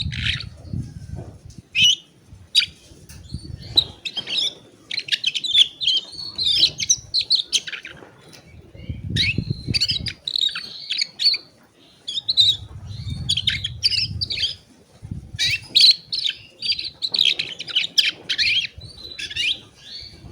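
Domestic canary singing in rapid trilled and chirping phrases of several seconds, with brief pauses. A few low muffled bumps fall between phrases.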